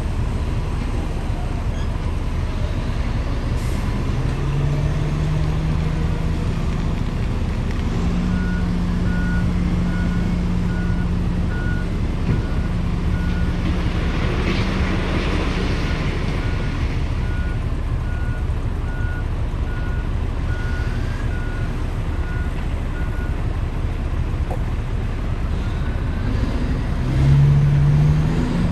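Heavy dump truck engine running, with a reversing alarm beeping steadily for about fifteen seconds in the middle and a short hiss about halfway through.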